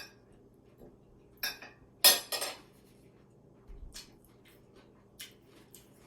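Cutlery clinking against dishes, a few separate sharp clinks, the loudest about two seconds in.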